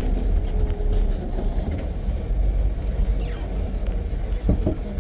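Safari jeep running along a dirt forest track: a steady low engine and road rumble.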